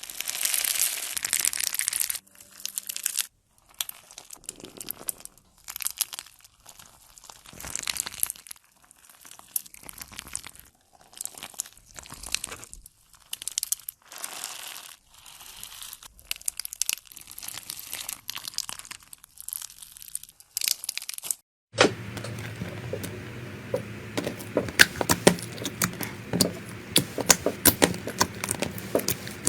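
Slime being squeezed and pressed by hand, giving crinkly, crackling noises in repeated bursts with short pauses between them. About three-quarters of the way through, the sound changes abruptly to a steady low hum with many sharp pops and clicks.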